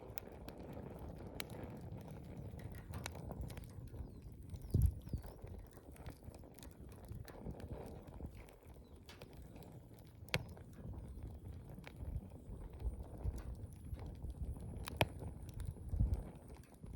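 Wood campfire burning: a steady low rush of flames with sharp crackles and pops scattered irregularly, and a couple of low thuds about five seconds in and near the end.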